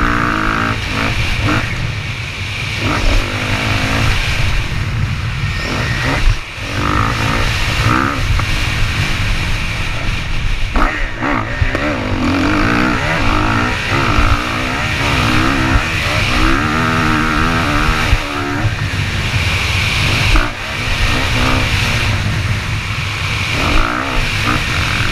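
Motocross dirt bike engine revving up and down again and again as it is ridden, over a heavy low rumble, with two brief drops in level.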